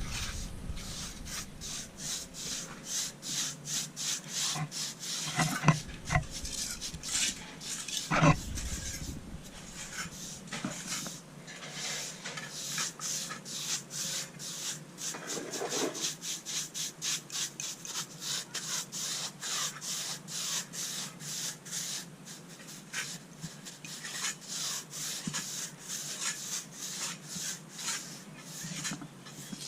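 Stiff brush scratching across freshly patched cement in quick, even, repeated strokes, giving the surface a texture so it is not too smooth or slippery. Two louder knocks come about six and eight seconds in.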